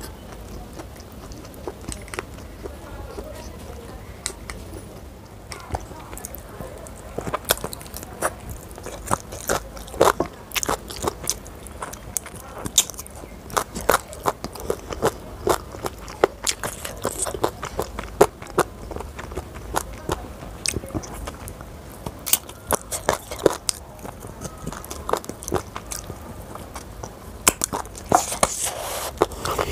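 Close-miked mouth sounds of a person eating a chicken leg piece: biting and chewing with many sharp, crunchy clicks, coming thicker from about seven seconds in.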